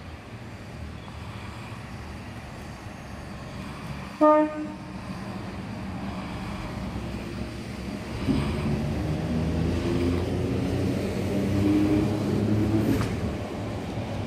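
A train approaching and running past, with one short, loud horn toot about four seconds in. Its rumble builds, and from about halfway a low, pitched hum rises slightly as it comes closer.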